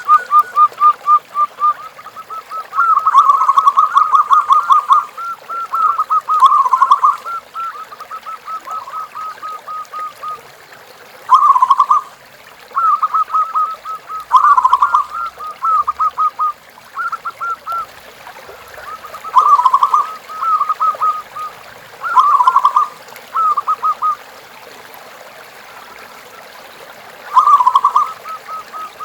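Zebra dove (perkutut) cooing: phrases of rapid staccato coos on a nearly steady pitch, repeated every few seconds with short pauses. Some phrases are louder than others, and there is a longer pause near the end.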